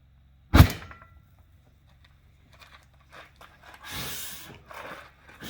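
A single sharp bang as the ether in a skid steer tire ignites and blows the tire bead onto the rim, about half a second in. Quieter rustling and hissing noises follow a few seconds later.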